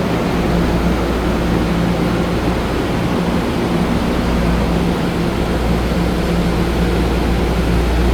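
Taiwan Railway empty-stock train pulling into a station: steady running noise with a low hum, even throughout.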